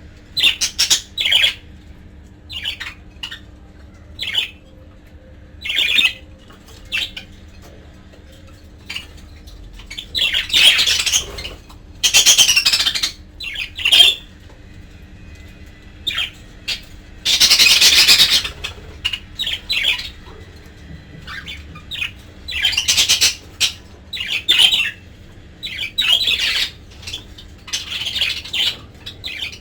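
Budgerigars chattering and squawking in irregular bursts, short chirps mixed with longer harsh calls of about a second, over a faint steady hum.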